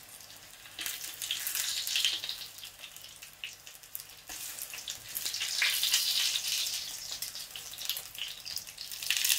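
Oil sizzling and crackling in a frying pan as spinach fritters fry and are turned over with wooden spatulas. The sizzle swells about a second in and again around the middle.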